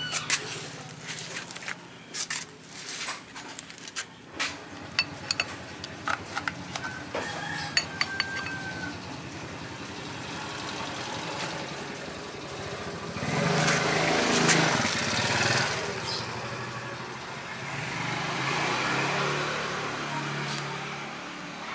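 Quick metallic clicks and knocks of hand tools on car parts for several seconds, during engine-removal work. Then a vehicle engine swells up and dies away twice.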